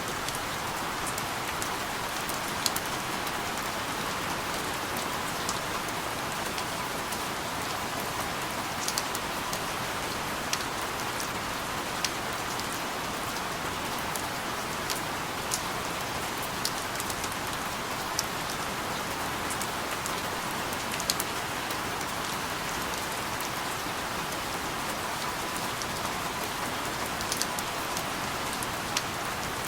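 Steady rain falling, with scattered sharp ticks of single drops hitting a surface at irregular intervals.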